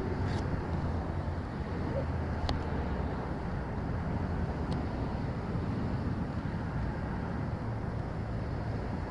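Motorcycle running, a steady low rumble with wind noise on the microphone.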